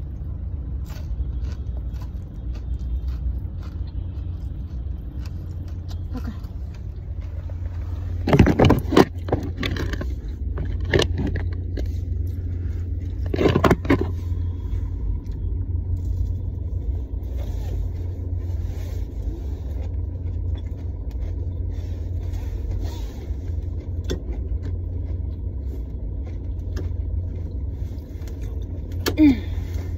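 Steady low hum of a car engine idling, heard inside the cabin. Brief louder scrapes and knocks come about eight and thirteen seconds in, and a seatbelt is pulled across near the end.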